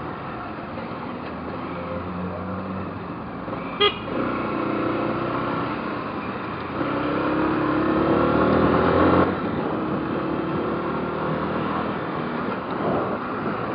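Motorcycle engine under way, revving up steadily as the bike accelerates, then easing off suddenly about nine seconds in; a short horn beep sounds about four seconds in.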